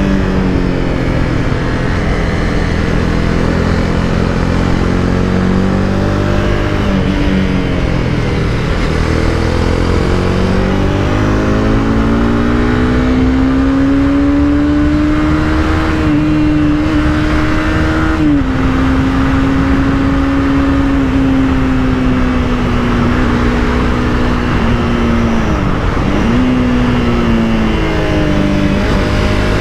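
Honda CBR300R's single-cylinder engine under way. The revs climb slowly for several seconds, drop suddenly once, then dip sharply and recover near the end, over steady road and wind noise.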